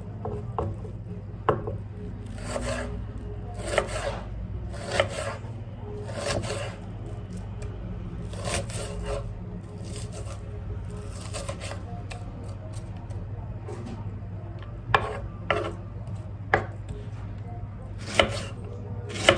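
Food being cut with a knife on a cutting board: irregular slicing strokes about once a second, with a few sharp knocks of the blade on the board near the end, over a low steady hum.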